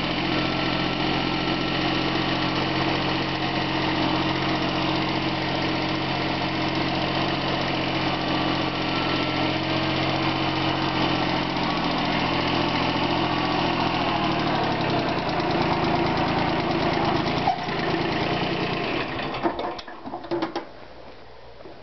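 Bolens G174 garden tractor engine running steadily, its pitch shifting about two-thirds of the way in. Near the end the engine is shut off, leaving a few light knocks.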